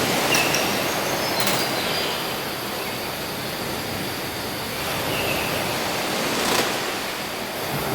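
Steady rushing noise, with a few faint clicks and short high tones about half a second, one and a half, and six and a half seconds in.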